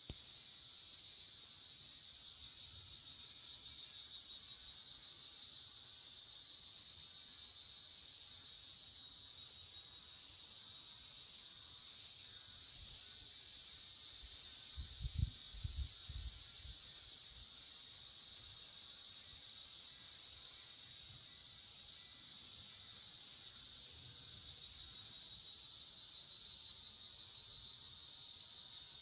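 Steady chorus of insects: a dense, continuous high-pitched buzz that never lets up. A few brief low thumps come about halfway through.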